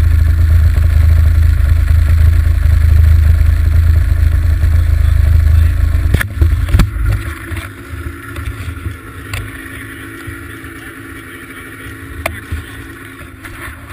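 Arctic Cat ZR800 snowmobile's two-stroke engine running loud and steady under way, then about six seconds in it drops sharply to a much quieter, lower running, with a few sharp knocks after the drop.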